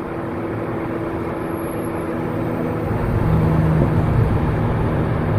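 Turbocharged car's engine and exhaust running steadily with road noise, getting a little louder about three seconds in as the engine note settles lower and stronger.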